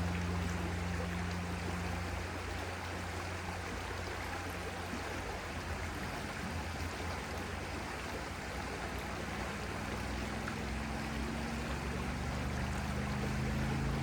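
Running water, a steady rushing stream, with a low engine drone under it that fades away over the first few seconds and comes back, slowly rising in pitch, near the end.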